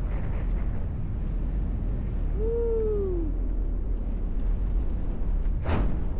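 Wind rushing over the microphone during a tandem BASE jump descent under parachute canopy, a steady low rush. A single whoop sounds about halfway through, and a short sharp gust hits near the end.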